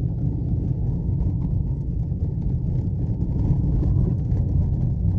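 Steady low rumble of a car driving on a road, heard from inside the moving car, with faint light rattles and ticks over it.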